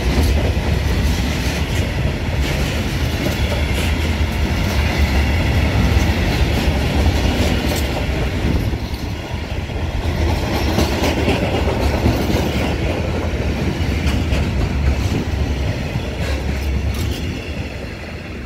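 Freight train wagons rolling past at close range: a steady rumble with the steel wheels clattering over the rail joints. The sound fades near the end as the last wagon goes by.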